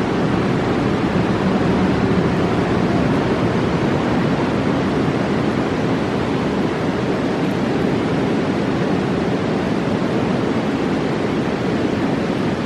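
A fast mountain river roaring, a dense, steady rush of water.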